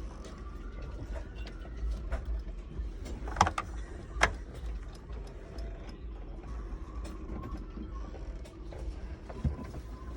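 Wind buffeting a sailboat and the microphone, a steady low rumble with scattered knocks and clicks from the boat's fittings, two louder knocks about three and four seconds in, and a faint wavering whistle.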